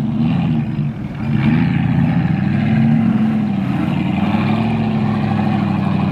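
A 4x4 vehicle's engine revving, its pitch wavering up and down, then holding a fairly steady note through the second half.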